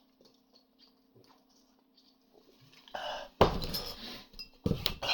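Beer being chugged: faint, regular swallowing gulps, then from about three seconds in heavy breaths and loud clinks and clatter as the drink container is handled.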